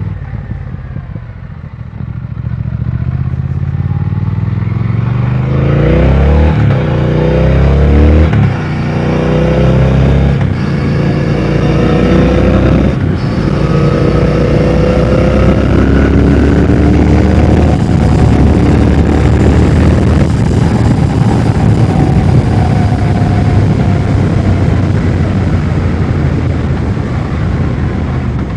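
2020 Triumph Speed Twin 1200's parallel-twin engine accelerating hard through the gears, the revs climbing and then dropping at each upshift, before settling into a steady run at speed. The engine is being run at high revs (an 'Italian tune') to flush injector cleaner through injectors suspected of being dirty.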